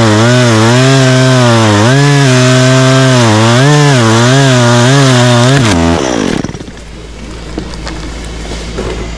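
Two-stroke chainsaw running at high revs through wood, its pitch dipping and rising as it loads in the cut. About six seconds in the throttle is released and the engine note drops away.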